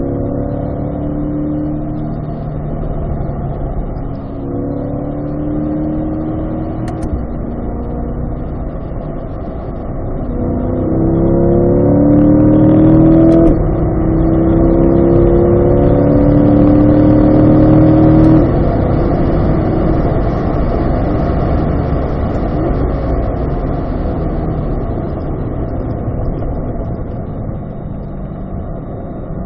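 Corvette V8 heard from inside the cabin under hard acceleration on a race track, its note rising in pulls through the gears with an upshift about 13 seconds in. It is loudest just before lifting off about 18 seconds in, then runs quieter as the car slows and drops a gear.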